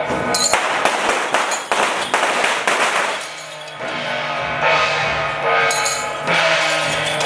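Temple procession music, with a rapid string of firecrackers crackling through the first three seconds or so.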